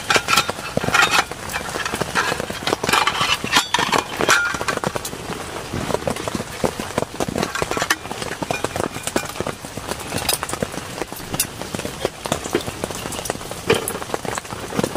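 Heavy rain falling, with a dense, irregular patter of drops striking a surface close to the microphone, heaviest in the first few seconds.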